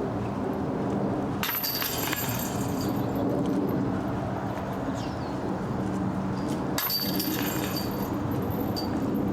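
Disc golf discs striking the chains of a basket twice, about a second and a half in and again about seven seconds in, each time a brief metallic jangle of chains, over a steady low hum.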